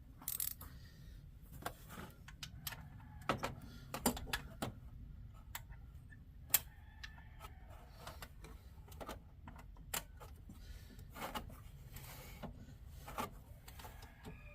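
Metal hand tools clicking and knocking against engine parts in irregular, sharp taps, the loudest about six and a half seconds in.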